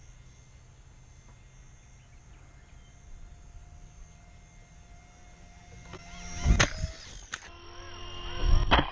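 Small remote-control helicopter's motor and rotor whining faintly and steadily. Then it comes in close with two loud, sudden bursts of rotor buffeting and knocks, about six and a half seconds in and again near the end, as the helicopter strikes a person's head.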